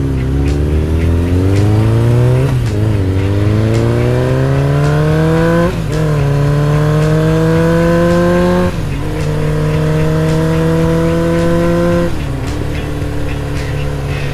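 Motorcycle engine accelerating up through the gears. The pitch climbs, drops sharply at each of four shifts about three seconds apart, and runs steadier at a lower pitch after the last shift near the end.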